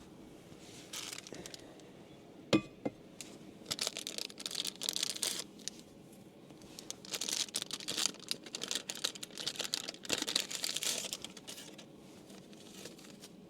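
Wrapper packaging crinkling and tearing in several bursts as single-serve coffee bags are handled, with one sharp click about two and a half seconds in.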